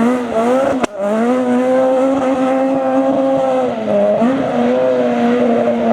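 Super 2000 rally car's engine running at high revs, holding a high pitch and dipping briefly at a gear change near four seconds. A sharp click with a momentary drop in sound comes about a second in.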